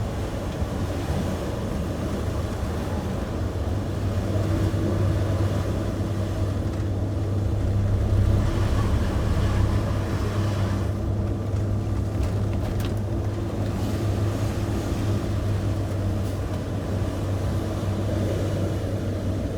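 Motorhome engine and road noise heard inside the cab while driving: a steady low drone.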